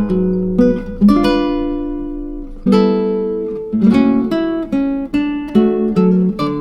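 Background music of acoustic guitar, plucked chords and single notes that ring and fade between strokes.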